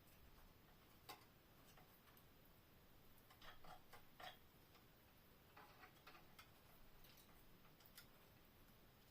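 Near silence with faint, irregular clicks and ticks, a few of them in short clusters about three to six seconds in.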